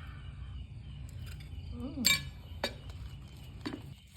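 Utensil clinking against a bowl: one sharp, ringing clink about two seconds in, followed by two lighter taps, over a low steady hum.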